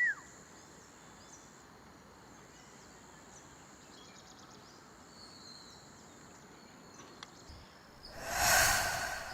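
Steady high-pitched insect chirring, like crickets, with a few faint chirps over it. About eight seconds in, a loud rushing noise swells up and fades away over about a second.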